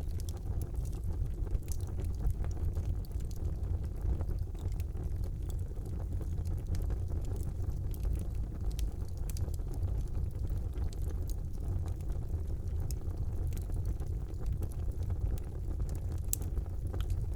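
Wood fire burning in a fireplace: a steady low rumble of flames with scattered small crackles and pops, one sharper pop near the end.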